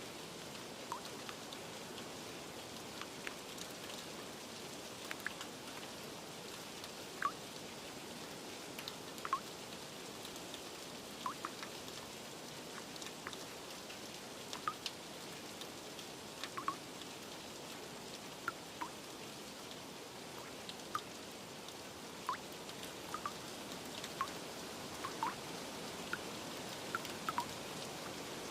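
Steady rain hiss with individual raindrops tapping sharply and irregularly, about one or two a second.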